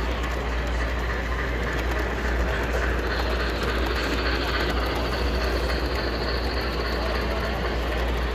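HO-scale model train running on a layout: a steady rumbling hum with a constant low drone beneath it.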